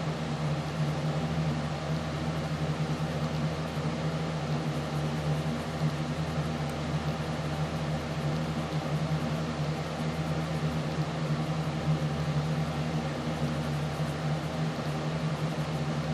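A steady mechanical hum with a low drone and an even hiss over it, unchanging throughout.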